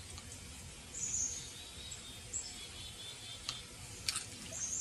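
Quiet outdoor ambience: small birds chirping briefly a few times, with a couple of faint clicks from a hand-pump water filter being worked.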